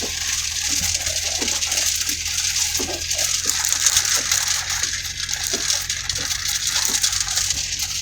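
Heavy rain pelting a vehicle's roof and windshield: a dense, steady hiss with scattered individual drops tapping through it.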